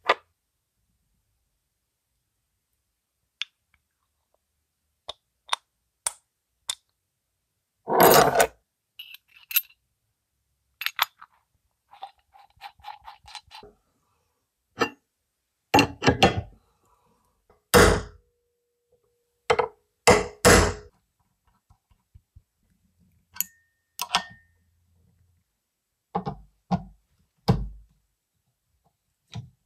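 Metal parts and hand tools handled on a workbench: a string of separate knocks and clinks with gaps between them, and a short rattle about twelve seconds in.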